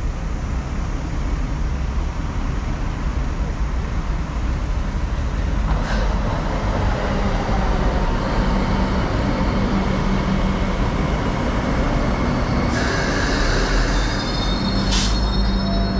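Hong Kong Light Rail Phase V two-car train running through a stop: a steady rumble of the cars on the track that grows louder about five seconds in. High-pitched tones come in over the rumble near the end, with a couple of brief clicks.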